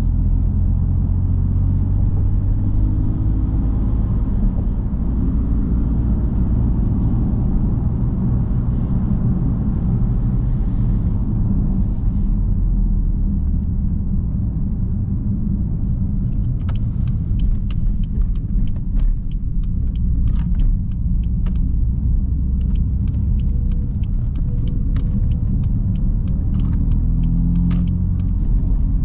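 BMW M3 F80's 3.0-litre twin-turbo inline-six running through normal light driving, a steady low drone with slight rises and falls in pitch early on. Scattered sharp clicks sound through the second half.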